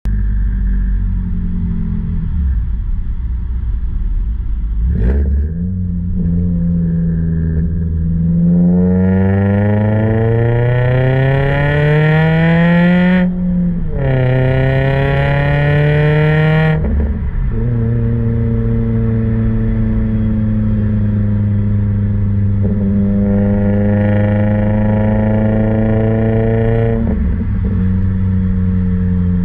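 Scion tC's 2.5-litre four-cylinder engine through a nearly straight-piped aftermarket exhaust (Dezod header, CNT S-pipe, Ark Grip cat-back with a small resonator and muffler). It runs steadily, blips once, then climbs in pitch for several seconds. The pitch drops suddenly about thirteen seconds in, climbs again, and settles into a steady drone.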